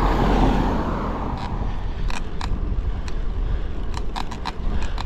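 A car passing close by: its noise swells and fades away over the first two seconds, over a steady low wind rumble on the microphone. A few sharp clicks follow later.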